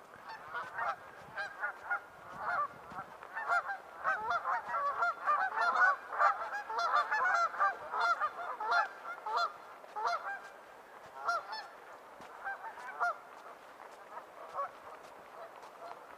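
A flock of geese honking, many short calls overlapping, busiest in the middle and thinning out toward the end.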